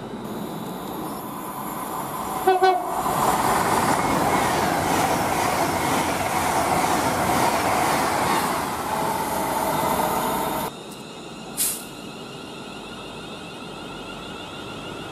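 Two short train-horn toots, followed by the loud rush of an Avanti West Coast express train passing close at speed. The rush lasts about eight seconds and cuts off suddenly, leaving quieter background rumble with one brief high hiss.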